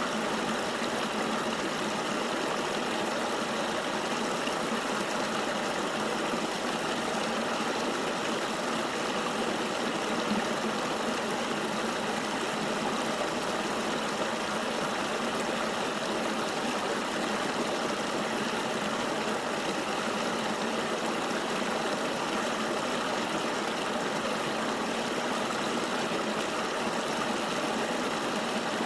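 Flowing river water making a steady, even rushing noise, with no changes or separate splashes.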